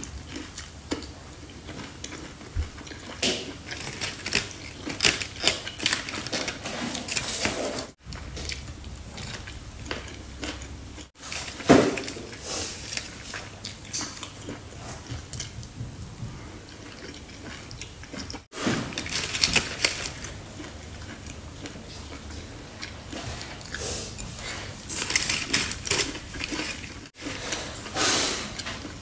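Close-up eating sounds: chewing of mouthfuls of foil-baked chicken-of-the-woods mushroom, with crinkling of the aluminium-foil parcel and a spoon clinking. Many short clicks and crackles, broken by a few sudden breaks.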